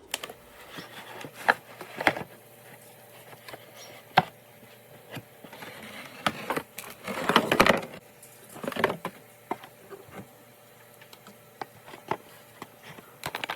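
Small hard objects being handled and set down: scattered sharp knocks and clicks, with stretches of rustling and scraping as things are moved about.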